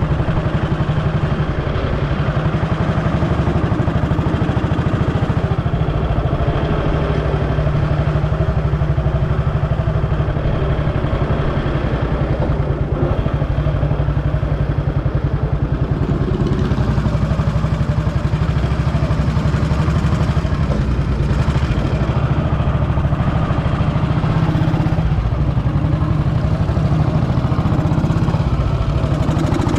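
Vintage motorcycle engine running steadily at an even speed.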